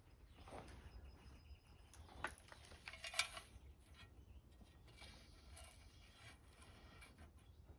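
Quiet handling sounds during repotting: faint rustling and a few light knocks, the clearest about two and three seconds in, from a small bonsai tree, its pot and soil being worked by hand over a low steady room hum.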